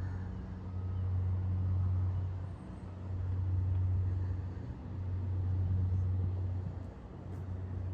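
Low engine hum, swelling and fading about every two seconds.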